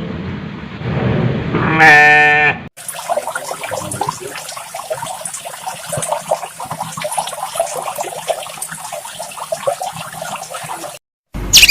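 Goat bleating once, loudly, after a noisy stretch; after a cut, a crowd of livestock calling at once, a dense chatter of many short overlapping calls that stops abruptly near the end.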